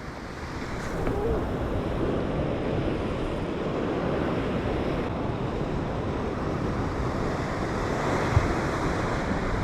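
Ocean surf washing steadily against the shore, swelling about a second in, with wind buffeting the microphone.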